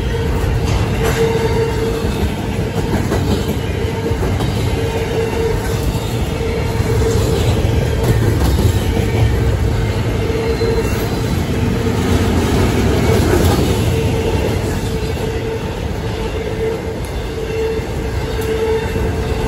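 Double-stack intermodal freight cars of a CSX train rolling past at speed: a continuous rumble and clatter of steel wheels on rail, with a steady tone that comes and goes.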